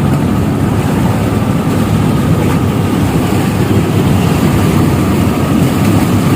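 Steady low rumble of a ship's diesel engine running during a berthing manoeuvre, unchanging throughout.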